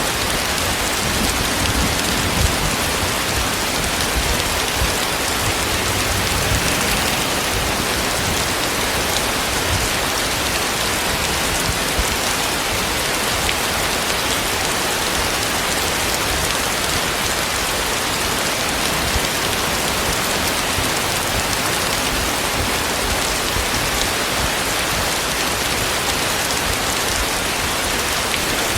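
Heavy rain pouring steadily and hissing, with dense drops spattering on surfaces close by.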